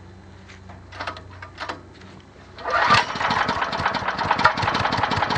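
Rope-started generator engine running on wood gas catches about two and a half seconds in and runs with a fast, uneven firing beat, after a few light clicks and knocks.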